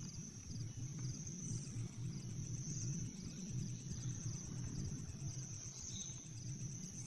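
Outdoor ambience with insects trilling steadily in a high, even pitch, pulsing rapidly, over a low rumble.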